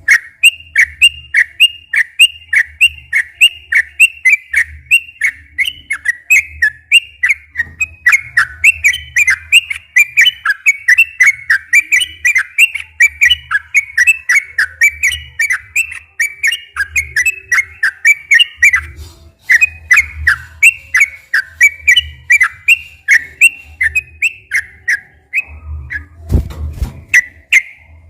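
Yellow-vented bulbul (trucukan) singing a long unbroken run of short, bubbly whistled notes, several a second, the full continuous song ('ropel panjang') used to provoke other bulbuls into singing. The song falters briefly partway through and thins near the end, where a low thump-like rumble is heard.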